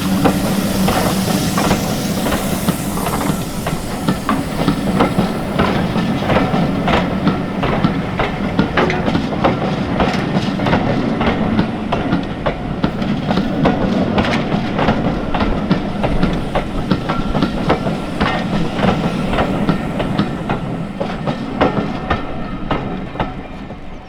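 Steam-hauled train passing, with a hiss of steam in the first few seconds, then the coaches' wheels clicking over the rail joints, dying away near the end.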